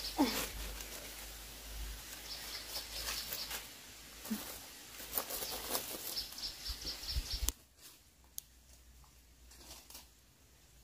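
Birds chirping in repeated rapid high trills, with a few scattered short calls; the background drops away suddenly about two-thirds of the way through.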